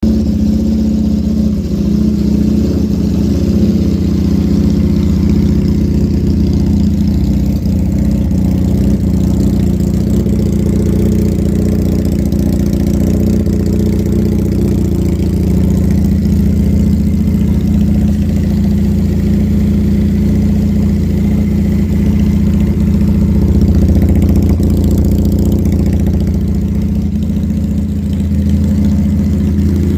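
Custom bobber motorcycle's engine idling steadily.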